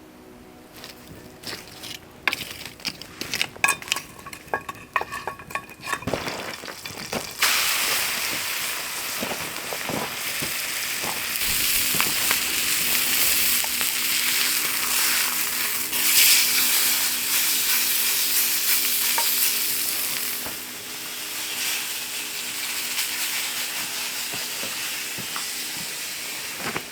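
Meat sizzling in a frying pan over a campfire: a loud, steady hiss that starts suddenly about a quarter of the way in, after some clinks and knocks of the pan being handled, and swells briefly about halfway through.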